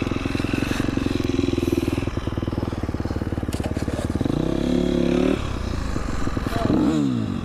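Motorcycle engine running steadily, revving up in rising pitch about four seconds in and dropping off suddenly a little after five seconds. A short rev rises and falls near the end.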